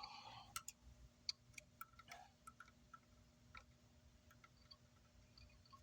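Near silence with faint, scattered clicks of small tools handling parts on an amplifier circuit board, most of them in the first three seconds or so, over a faint steady hum.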